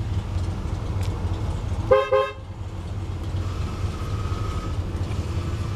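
2001 Lexus GS300's inline-six engine idling steadily, with one short car horn beep about two seconds in.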